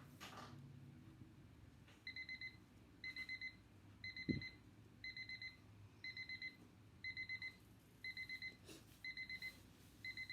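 An electronic alarm beeping in quick groups of four, a group about once a second, starting about two seconds in. A single soft thump comes a little after four seconds.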